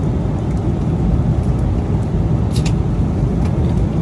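Airliner cabin noise: a steady low rumble of the engines and airflow, with a faint short click about two and a half seconds in.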